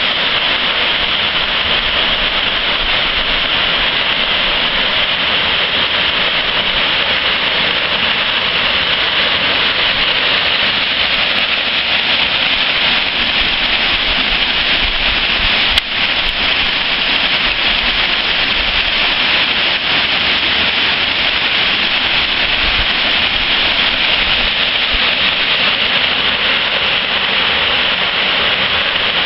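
Waterfall: a steady, loud rush of falling water, with a single sharp click about halfway through.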